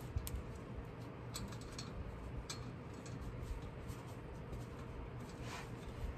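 A few short, sharp clicks and ticks at irregular intervals, from hand tools being worked on the drive shaft's fasteners.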